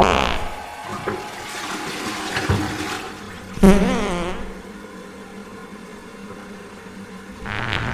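Toilet flushing, slowed down and drenched in reverb. A sudden loud burst with a wobbling pitched tone comes about three and a half seconds in, then a quieter wash until another swell near the end.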